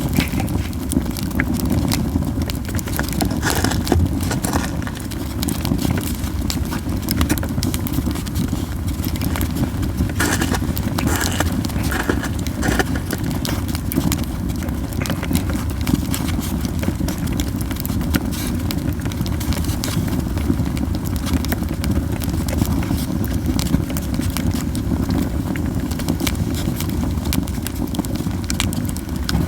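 Yew-wood campfire crackling, with frequent sharp pops scattered irregularly over a steady low rumble.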